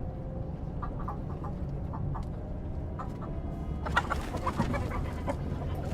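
Chickens clucking in short scattered calls over a low steady rumble, busiest about four seconds in.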